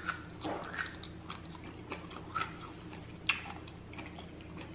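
A person biting and chewing roasted asparagus close to the microphone, with soft wet mouth smacks and clicks; one sharper click about three seconds in.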